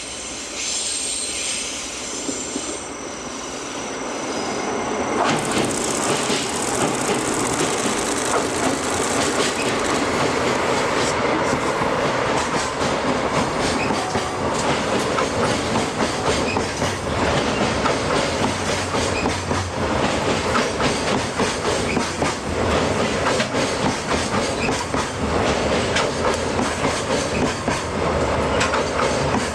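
A freight train hauled by a DD51 diesel locomotive passing close by. A high, thin squeal comes first, then from about five seconds in a loud, steady rumble with rapid clickety-clack of wagon wheels over the rail joints.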